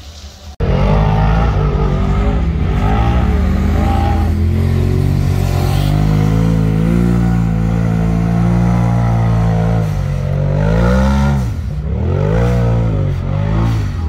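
Side-by-side UTV engine working hard under load as it climbs a steep dirt hill. It starts suddenly about half a second in, rises in pitch and holds steady, then dips and surges repeatedly with throttle changes near the end.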